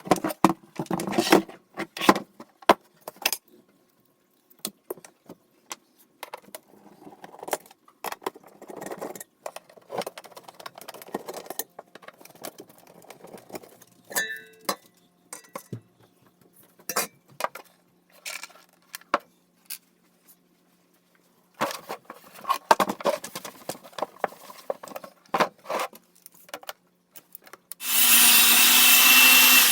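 Workbench handling sounds of tools and parts: scattered clatters, taps and scraping, with a loud steady whirring noise for about two seconds near the end.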